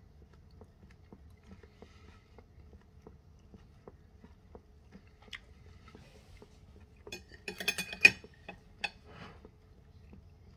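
A man chewing a mouthful of roast stuffed breast of lamb, with soft mouth clicks. Around seven to eight seconds in there is a short burst of louder clattering clicks.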